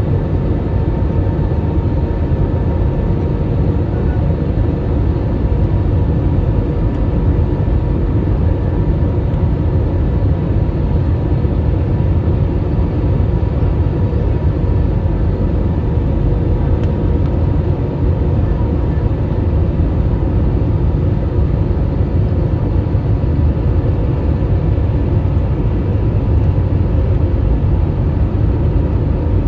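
Jet engines of an Airbus A320-family airliner on landing, a steady low rumble with a faint steady whine above it.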